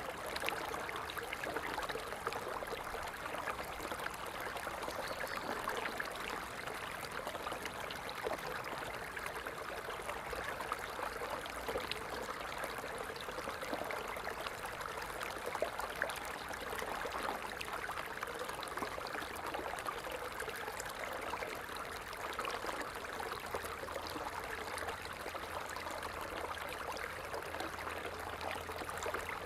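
Water falling and splashing steadily, a continuous trickling rush without pauses.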